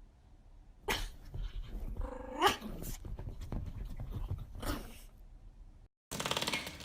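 A dog vocalizing: two short cries that rise in pitch, the first louder, over a scuffling, snuffling noise.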